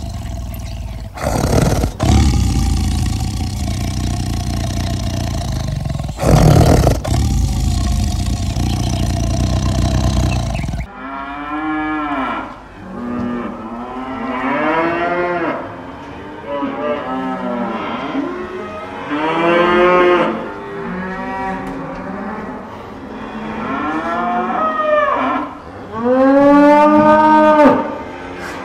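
A loud, rough, noisy sound for about the first eleven seconds, then cattle mooing: a run of drawn-out calls that rise and fall in pitch, several overlapping, the loudest near the end.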